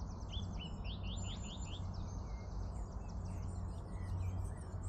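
Small wild birds chirping and twittering, with a quick run of rising chirps in the first second or two, over a steady low background rumble.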